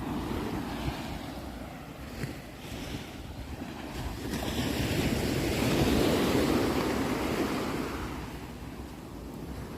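Sea waves washing onto a shore: a steady hiss of surf that swells to its loudest about halfway through as a wave breaks, then eases off.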